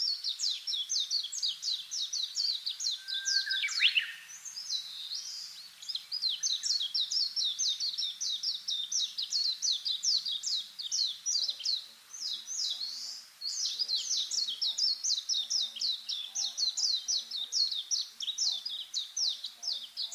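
A bird calling in long runs of quick, high, repeated chirps, about four or five a second, pausing briefly twice. Near the start a single rising call sweeps up beneath the chirps.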